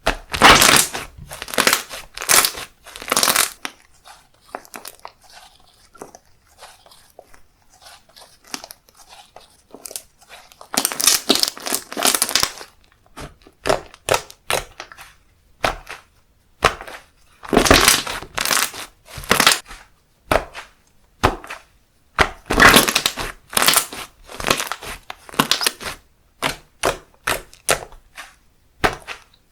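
Handmade slime being squeezed and pressed by hand, giving clusters of crackling and popping bursts with quieter stretches of soft clicks between them.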